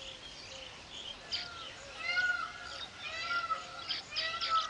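Weaver birds calling: a run of short calls that rise and fall in pitch, repeating roughly every half second to second from about a second in, over higher chirps.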